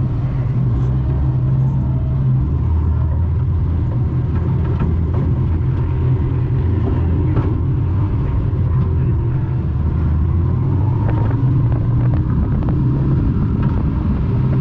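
Morris 1100's engine running at low revs, heard from inside its stripped cabin as the car rolls slowly onto the track, its pitch shifting a little, with occasional knocks and rattles.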